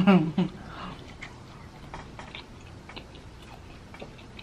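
Faint chewing of food, with scattered small wet mouth clicks. A brief bit of voice comes right at the start.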